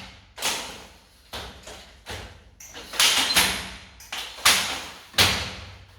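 A series of about ten irregular knocks and bangs, each starting sharply and ringing off over about half a second, the loudest about three, four and a half and five seconds in.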